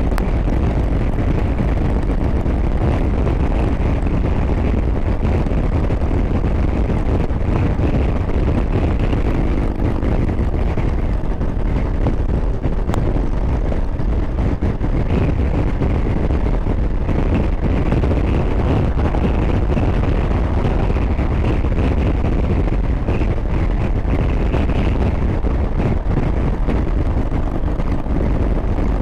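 Harley-Davidson Road Glide's V-twin engine running at steady cruising speed, mixed with loud wind rush on the microphone from riding.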